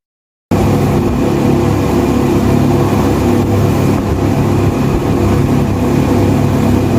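Boat engine running steady and loud at close range, with a haze of noise over it; it cuts in abruptly about half a second in and stops abruptly near the end.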